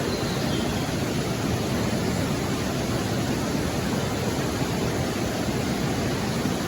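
Steady rushing of a rainforest creek's flowing water, an even unbroken noise.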